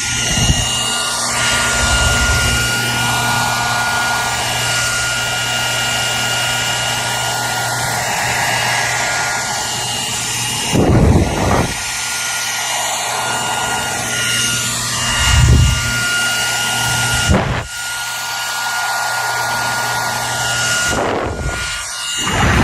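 Hair dryer running steadily: an even rush of air with a thin high whine and a low motor hum. A few brief low thumps of air break through, about a second in and several times later.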